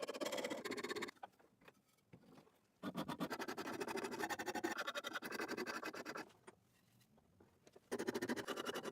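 Rapid, even scraping strokes of a hand tool working an oak handle, in runs of a few seconds that stop twice, about a second in and again around six seconds.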